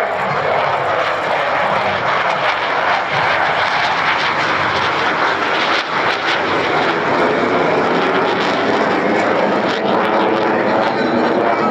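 HAL Tejas single-engine jet fighter's turbofan running loud and steady as the jet flies its display.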